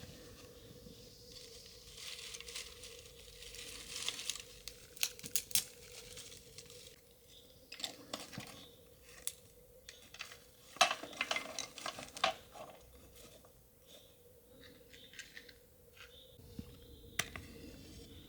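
Kitchen food-preparation handling sounds: scattered sharp clicks, taps and clinks mixed with rustling and crinkling, busiest about eleven seconds in, over a faint steady hum.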